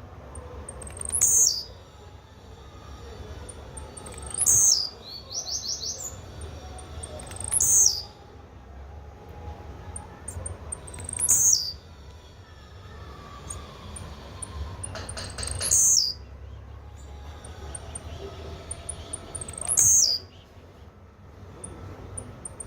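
Blue-black grassquit (tiziu) singing its short, high, falling song phrase, repeated six times about every three to four seconds, with faint high chirps between.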